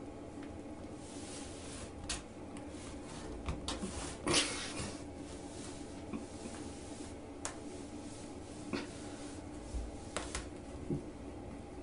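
A rag rug scraping and rustling across a tile floor as a cat's paw pulls it under a closed door, in scattered short scratches and knocks, the biggest rustle about four seconds in, over a steady low hum.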